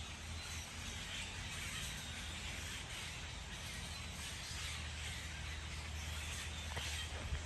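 Steady outdoor background hiss over a low hum, with faint harsh bird calls.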